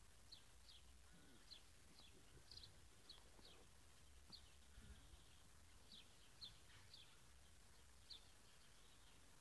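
Faint bird chirps: about a dozen short, high calls at uneven intervals, over a low background rumble.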